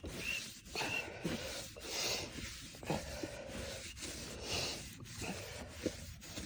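A cloth wipe scrubbing a heavily oxidized plastic headlight lens, in repeated back-and-forth rubbing strokes that remove the yellowed oxidation.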